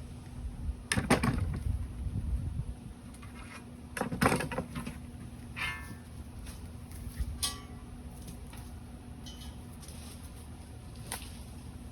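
Knocks and clatter of metal workpieces or tools being handled, in two louder bunches about a second in and about four seconds in, with a brief ringing tone near the middle and lighter clicks later. A steady low hum runs underneath.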